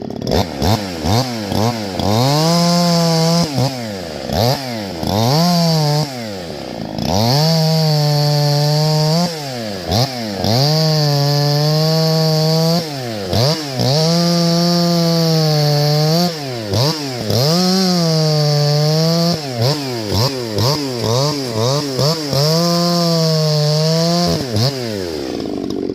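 Two-stroke chainsaw revved over and over: quick throttle blips and about eight full-throttle runs of one to two seconds each, the engine note climbing, holding steady, then dropping back to idle between.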